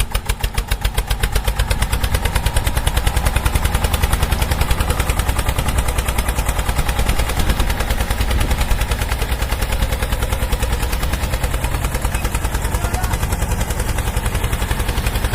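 Small single-cylinder engine on a mini tractor running with a rapid, staccato exhaust beat; the beat quickens and grows louder over the first couple of seconds, then holds steady.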